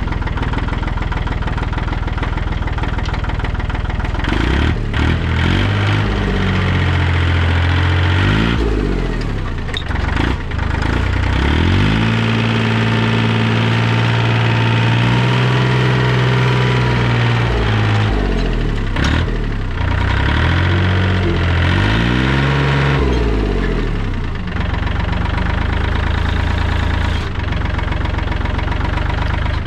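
Tractor engine idling, then revved up and let back down several times, held at higher speed for several seconds in the middle, before settling back to idle near the end.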